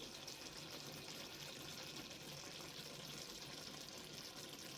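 Chicken back and vegetables sizzling steadily in a frying pan.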